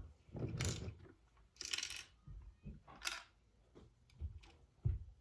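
Plastic Lego pieces clicking and rustling as the built ice-cream truck model is handled, in a few short bursts of clatter with quiet gaps between.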